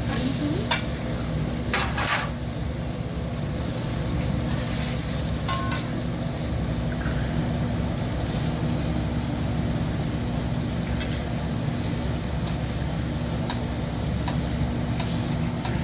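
Food sizzling on a hibachi griddle, a steady frying hiss, with a few sharp clacks about a second in, around two seconds and again near six seconds.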